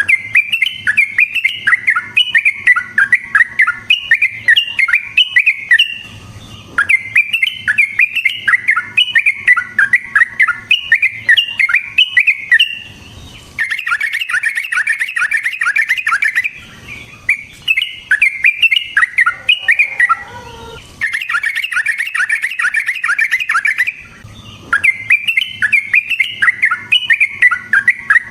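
Yellow-vented bulbul (trucukan) singing in long runs of fast, chattering notes, broken every few seconds by brief pauses.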